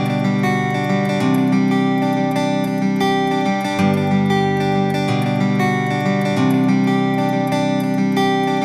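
Background music: an acoustic guitar playing chords that change every second or two.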